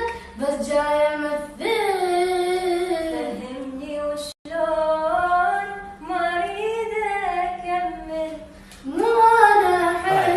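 A high solo voice singing long, drawn-out, ornamented notes with little or no accompaniment. The voice breaks off for a moment about four seconds in, then carries on.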